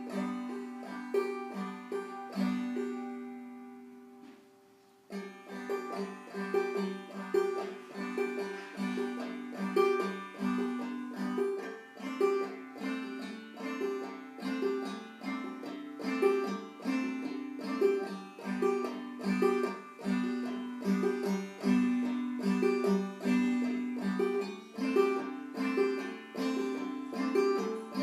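Banjo played clawhammer style, basic downpicking and a couple of chords in a steady rhythm. About three seconds in the notes ring out and die away, and the playing starts again about two seconds later.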